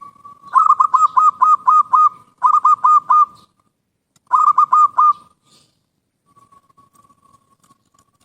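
A bird calling in three quick runs of short, hooked, rasping notes, about four notes a second: first a run of about seven, then two runs of four.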